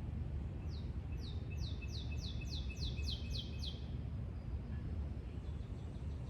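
A songbird sings one phrase of about ten quick high notes, each falling in pitch, starting just under a second in. A steady low rumble runs underneath.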